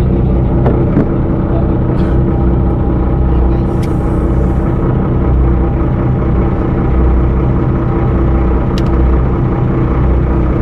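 Engine running steadily, a low even drone with a constant pitch, with a few light clicks over it.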